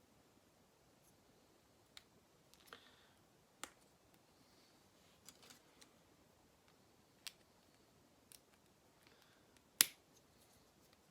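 Small plastic Lego pieces being handled and snapped together, wheels going onto a minifigure's wheelchair: a scatter of light, sharp clicks with faint rustling, the loudest click near the end.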